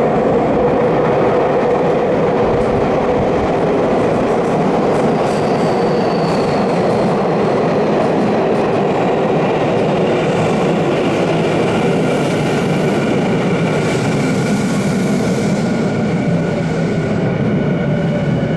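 Electric commuter train running through an underground station platform: a loud, steady rumble of wheels on rails, with thin high tones joining in about halfway through.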